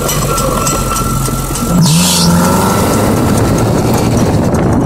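Engine of a Honda Civic-based offroad buggy running under way, rising in pitch and getting louder about two seconds in as it accelerates. A brief hiss comes with the rise.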